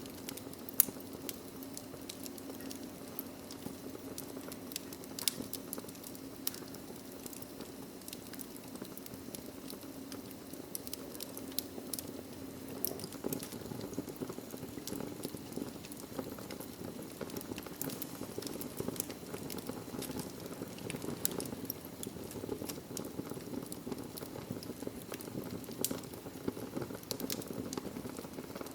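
Wood logs burning in a fireplace: a steady low rush of flame with frequent small crackles and pops, and one sharper pop about a second in.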